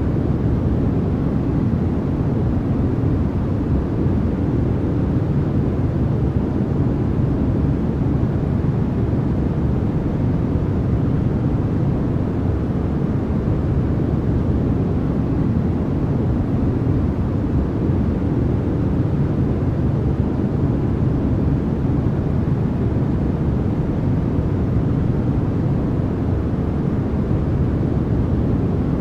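Continuous generated noise played as white noise for sleep, steady and unchanging. Most of its energy sits low down, so it sounds more like a deep rumble than a bright hiss.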